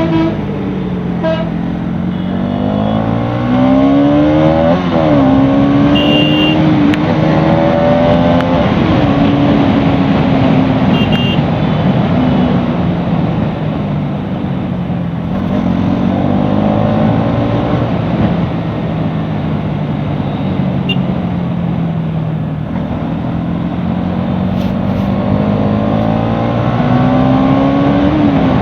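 Bajaj Pulsar NS200's single-cylinder engine under way, its pitch repeatedly rising as it revs up and dropping sharply at gear changes, over steady wind rush. Short horn toots sound a few times, about a second, six seconds and eleven seconds in.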